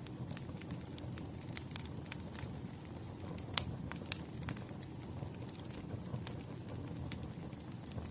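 Wood fire burning, with irregular sharp crackles and pops over a low steady rumble; one louder pop about three and a half seconds in.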